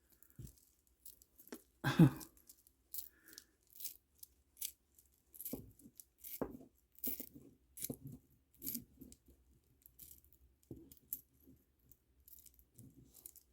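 Plastic pony beads clicking and rattling against each other as a beaded kandi cuff is handled and restrung, in irregular small taps, with one brief louder sound about two seconds in.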